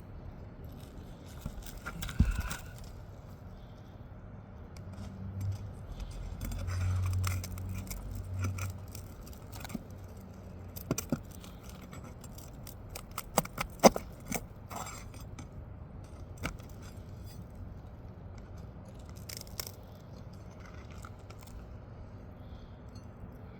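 Steel pry bar with a P-hook working on asphalt roof shingles: intermittent scraping and metallic clinks as nails are pried out. There are two sharp knocks, about 2 s and 14 s in, and a low rumble from about 5 to 8 s.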